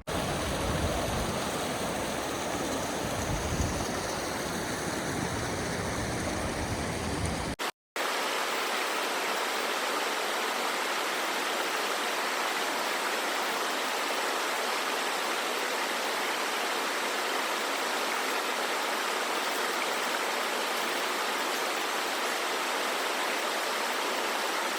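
Steady rushing of a mountain stream. About 8 s in it breaks off briefly at a cut. Before the cut it comes with a low rumble; after it, it runs on evenly.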